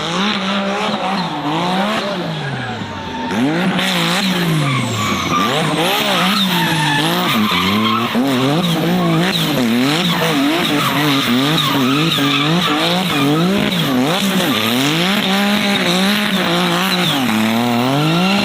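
Race car engine revved up and down over and over, its pitch swinging rapidly, with tyres squealing and skidding. It holds a steady note at the very start and gets louder about three and a half seconds in.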